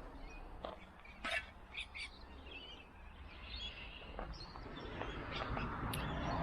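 Wild birds calling with scattered short chirps, over a faint low outdoor background noise.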